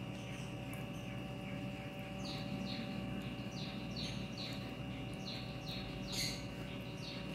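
A bird calling in a string of quick chirps, each falling in pitch, about three a second, starting about two seconds in, over a steady background hum.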